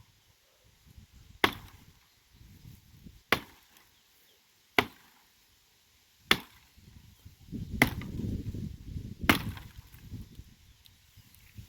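Firewood being chopped with a cutting tool: six sharp blows into wood, evenly spaced about a second and a half apart. A low rumble sits under the later blows.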